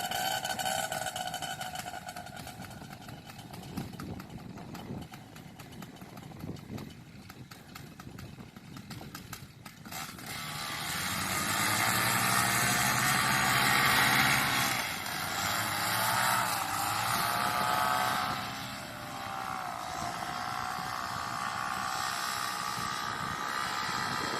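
Paramotor engine and propeller, running quietly at first, then throttled up about ten seconds in to a loud, steady run, its pitch dipping briefly twice before it holds.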